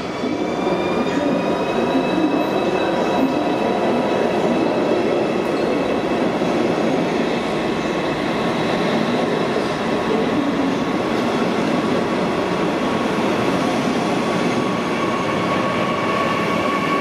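Red double-deck push-pull train with an electric locomotive running past along an underground platform: steady rolling noise with a high whine that rises a little in the first couple of seconds, then holds.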